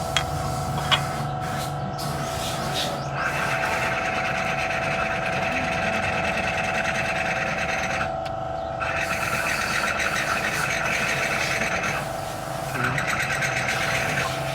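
A small motor-driven tool runs in three bursts of several seconds each, with a rhythmic buzzing whirr, over a steady workshop hum. Two sharp clicks come near the start.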